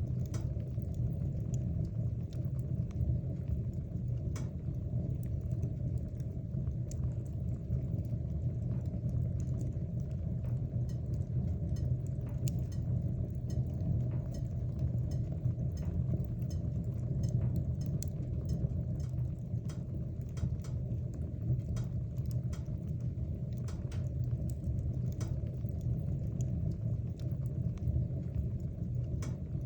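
Wood fire burning in a fireplace: a steady low rumble of flames with many scattered, irregular crackles and pops from the burning logs.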